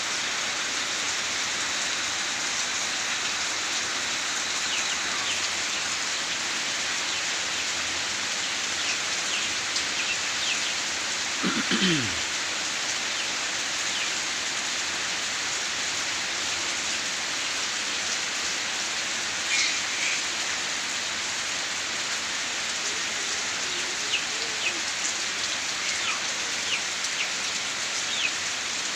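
Steady rain falling and splashing on surfaces. About twelve seconds in comes a brief low falling sound, and there are a few short high chirps over the rain.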